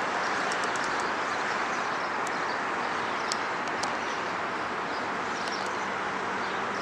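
Steady outdoor background noise, an even rush with no clear pitch, with a few faint short high ticks scattered through it.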